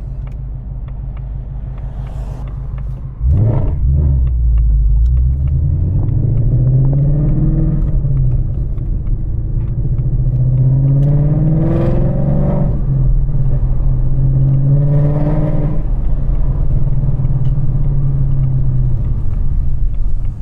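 Ford Mustang GT's 5.0 V8 running loud through catless longtube headers. It pulls along steadily, jumps in loudness about three seconds in, and then rises in pitch three times under acceleration, each pull dropping back before the next.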